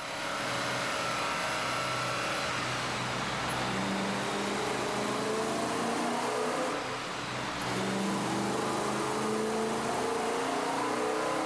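BMW M3 V8 engine running and revving: its pitch holds steady for the first few seconds, then climbs over several seconds, drops back briefly about seven seconds in, and climbs again.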